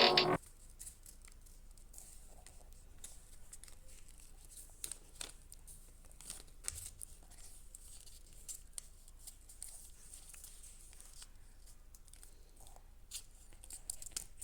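Faint crinkling, rustling and soft clicks of a sheet of paper being handled and folded, scattered irregularly. Background electronic music cuts off just after the start.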